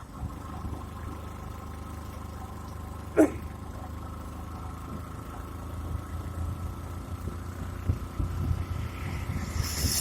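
A steady low engine rumble with a constant hum, growing rougher in the second half. About three seconds in there is one short, loud sound that falls sharply in pitch, and near the end wind hisses on the microphone.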